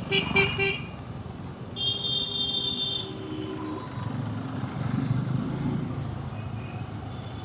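Vehicle horns in road traffic: four quick short beeps at the start, then one longer horn blast lasting about a second, about two seconds in, over a steady rumble of engines and traffic.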